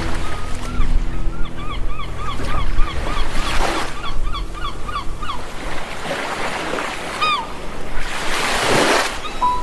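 Sea waves washing ashore in slow surges, the last near the end the loudest. A bird gives a run of short, quick calls, about two or three a second, over the first three-quarters. Faint held low music tones fade out about halfway.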